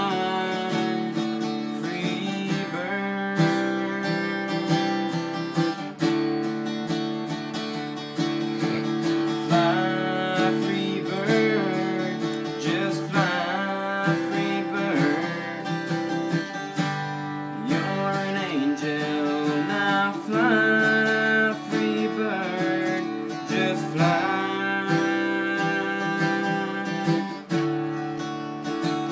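Acoustic guitar strumming chords in a slow country song, an instrumental passage with no sung words.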